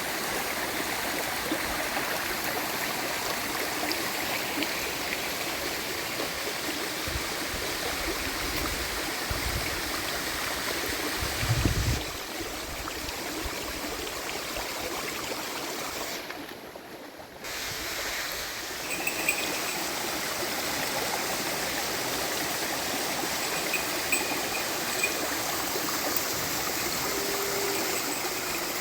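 Steady rush of flowing water, with a brief low thump about twelve seconds in and a short drop in level a little past halfway.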